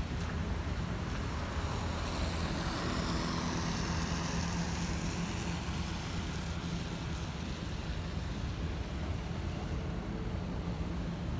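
Steady city traffic rumble. A vehicle passes about two to four seconds in, its tyre hiss on the rain-wet road swelling and falling away with a falling pitch.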